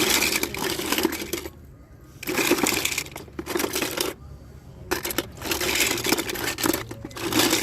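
Loose die-cast toy cars clinking and clattering against each other as they are rummaged through by hand, in three long spells with short pauses between.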